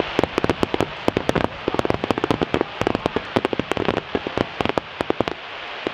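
Fireworks going off in a rapid barrage: many sharp bangs and crackling reports a second, coming in dense clusters, over a steady hiss.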